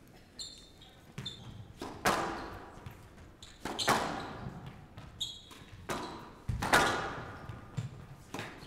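Squash rally: the racket strikes the ball and the ball hits the court walls, sharp impacts about every second or two that ring in the hall. There are a few short high squeaks of shoes on the court floor.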